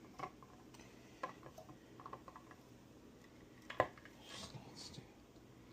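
Scattered light clicks and metallic clinks of small tools and parts being handled on a workbench, the loudest a sharp tap a little under four seconds in, followed by a brief soft hiss.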